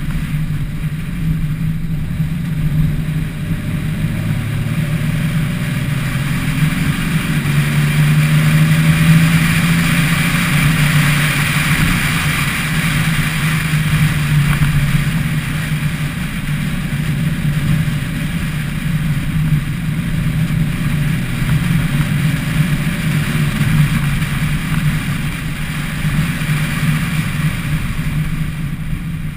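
Car engine running at steady low revs while driving, a continuous low drone that swells a little about a third of the way in, with road and wind noise.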